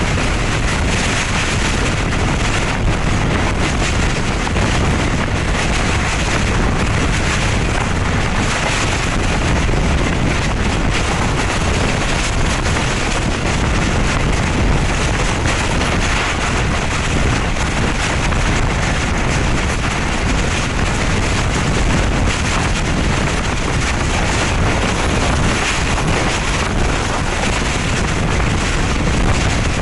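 Passenger train running at speed, heard from an open carriage door: a steady noise of wheels on the rails, with wind on the microphone.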